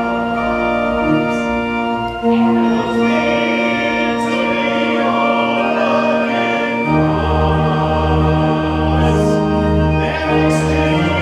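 A hymn sung by many voices with organ accompaniment, in held chords that change every few seconds. Deep bass notes come in about seven seconds in.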